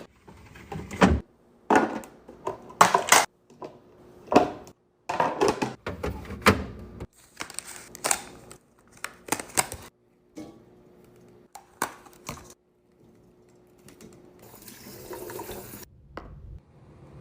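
Containers and groceries being handled and set into a fridge: a string of separate knocks, clicks and clinks. Near the end comes a brief rush of liquid.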